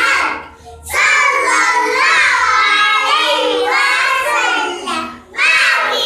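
Child's voice singing a chanted Islamic children's song in short phrases, with brief breaks about half a second in and about five seconds in.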